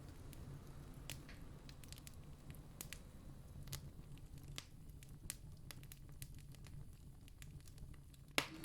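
Campfire crackling, with sparse sharp pops and one louder pop near the end, over a steady low rumble.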